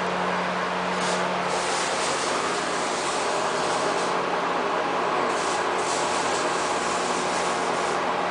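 CNC plasma cutter running: a steady, loud hiss over a constant low hum, with a few brief higher hisses along the way.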